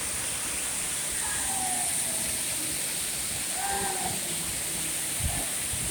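Waterfall running: a steady, even hiss of falling water.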